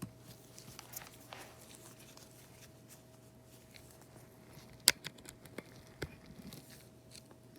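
Small repair tools clicking and scraping on the opened iPad mini 5's frame, cables and cracked glass: scattered light ticks with one sharp click about five seconds in, over a faint steady hum.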